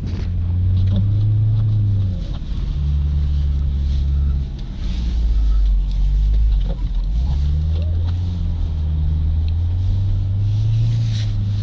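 Audi wagon's turbocharged four-cylinder engine running under load while drifting in deep snow, its pitch dropping in steps over the first few seconds and then climbing again in steps through the rest as the revs and gears change.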